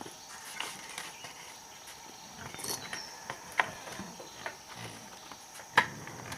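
Irregular light knocks and clicks, with one sharper knock near the end, over a steady high-pitched insect drone.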